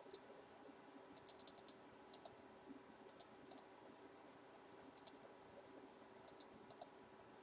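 Faint, irregular clicking of computer keys, with a quick run of about five clicks about a second in and single or paired clicks after.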